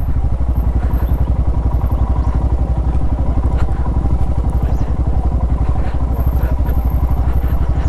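Motorcycle engine idling steadily, an even low pulse of several beats a second.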